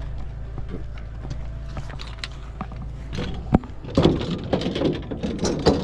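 Golf clubs clattering as they are handled and set into the back of a pickup truck: a sharp knock about three and a half seconds in, then a run of knocks and rattling. A steady low hum runs underneath.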